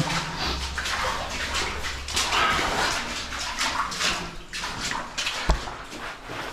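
Water splashing and sloshing in irregular strokes as feet wade through shallow water and soft mud on a cave floor, with one sharp knock about five and a half seconds in.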